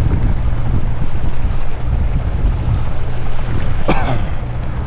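Boat engine running with a steady low hum, under wind buffeting the microphone and water rushing past the hull. A brief cry, falling in pitch, comes about four seconds in.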